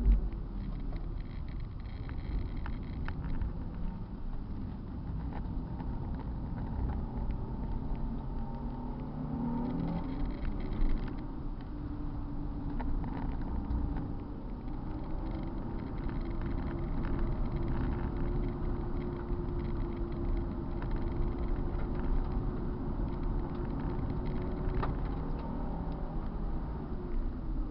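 Car engine running hard on a race circuit, its pitch falling at the start, rising again about a third of the way in, holding fairly steady through a long stretch, then falling once more near the end as the driver works the throttle and gears.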